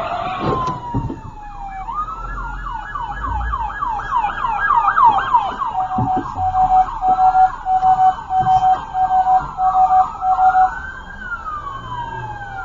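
Emergency vehicle siren changing patterns: a falling wail, then a fast yelp of quick rising sweeps, then a steady tone pulsing on and off evenly, and a slow rising and falling wail near the end.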